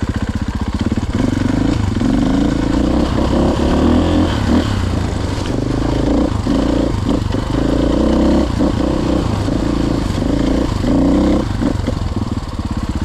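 Dirt bike engine revving up and down repeatedly as the throttle is worked on and off, with short dips in between.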